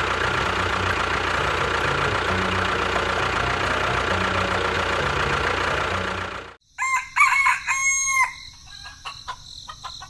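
A steady, dense engine-like running noise that cuts off abruptly about two-thirds of the way in, followed by a rooster crowing and clucking.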